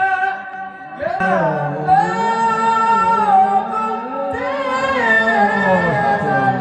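A man singing long, ornamented held notes, the pitch sliding and wavering within the phrase; a new phrase begins about a second in after a brief dip.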